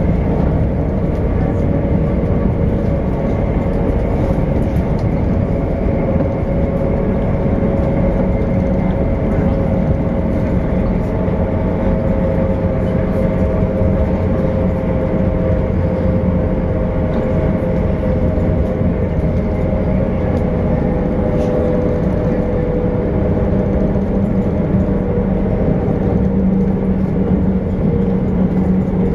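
Passenger train running at speed, heard from inside the carriage: a steady rumble of wheels and running gear with a whine that sinks slightly in pitch, and a deeper hum that grows stronger near the end.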